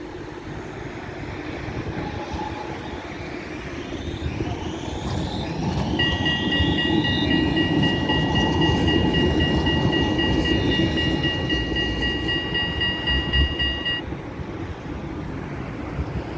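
A tram passing close by, its running rumble swelling to a peak mid-way, with a rising electric whine as it moves. For about eight seconds in the middle it gives off a steady, high-pitched two-note tone that stops abruptly.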